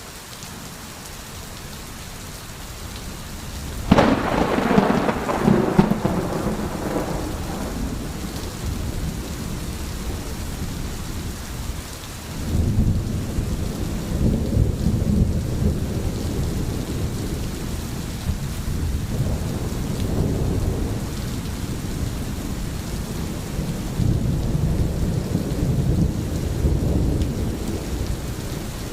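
Steady rain with thunder: a sharp thunderclap about four seconds in that rolls away over the next few seconds, then low rolling thunder rumbling on from about twelve seconds.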